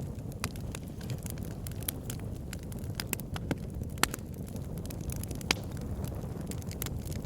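Fire in a fireplace crackling: irregular sharp pops and snaps over a steady low rumble of flames, with the loudest pops about four and five and a half seconds in.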